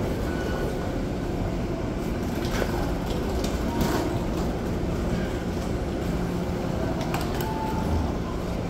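Steady low rumble of a train, with a few sharp clicks and knocks.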